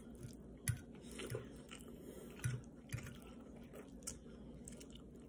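Faint, irregular chewing of a mouthful of scrambled egg with spinach, heard close to the microphone, with a few soft mouth clicks.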